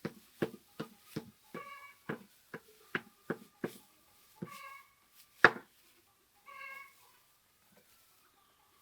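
An animal calling again and again, each call short and held on one pitch, over a run of quick knocks and thumps; the loudest thump comes about halfway through.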